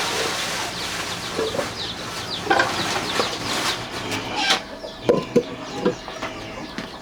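Chickens clucking, a few short calls over a steady background hiss.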